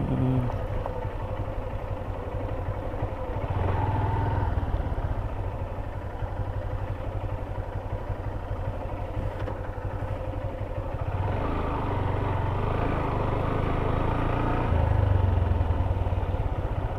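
Honda CB Hornet 160R's single-cylinder engine running as the motorcycle rides along, its note swelling a few times with the throttle.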